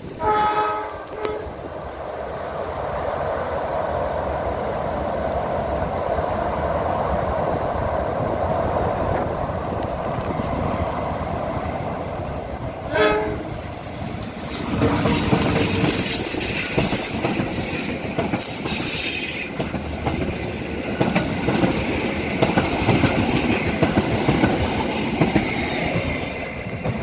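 KAI diesel-electric locomotive hauling a passenger train sounds its horn, the semboyan 35 warning signal, once at the start and again about 13 seconds in. Between the blasts the train rumbles steadily as it comes off the bridge. From about 14 seconds on it passes close by, with engine noise and wheels clacking over the rail joints.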